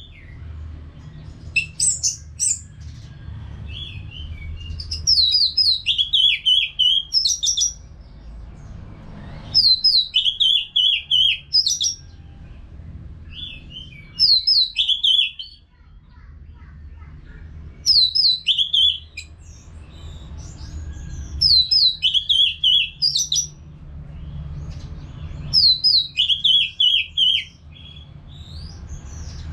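Orange-headed thrush singing repeated song phrases. Each phrase is a quick run of falling whistled notes about two seconds long, and one comes every four seconds or so, about eight in all. A low steady hum runs underneath.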